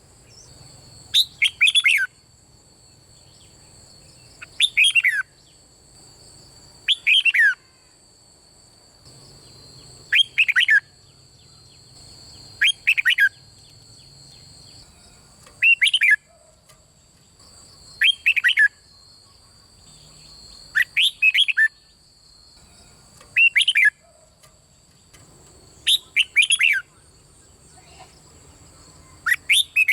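Red-whiskered bulbul singing: about eleven short, bright whistled phrases, one every two to three seconds. A faint steady high-pitched tone runs underneath.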